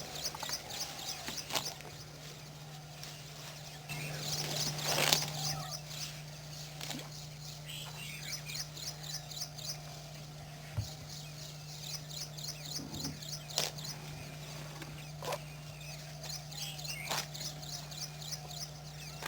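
Wild birds calling, with runs of rapid high chirps repeated in quick series that come and go, over a steady low hum and occasional sharp clicks.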